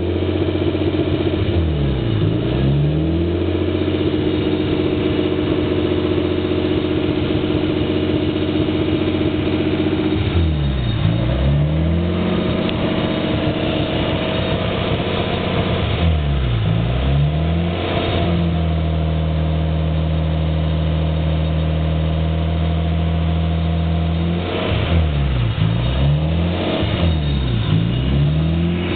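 Nissan RB20DET turbocharged inline-six idling with the rough idle that the owner cannot trace. Its engine speed dips and rises again a few times, with steady idle between.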